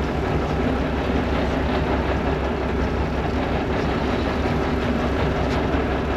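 Boat engine running steadily underway, a low continuous hum under a constant rush of noise.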